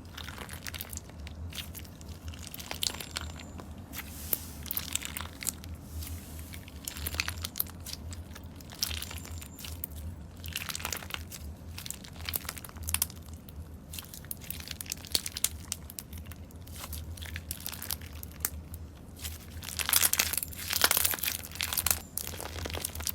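Slime being squeezed and pulled apart by hand, giving an uneven run of small crackles and crinkles, with a louder stretch of crackling near the end. A steady low hum lies underneath.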